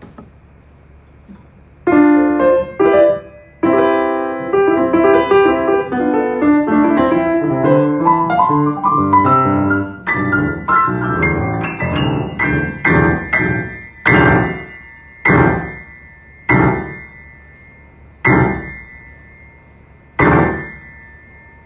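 A piano played by an unskilled player. After about two seconds a quick run of notes and chords starts, and from about halfway through it slows to single struck notes or chords roughly every second, each left to ring and fade.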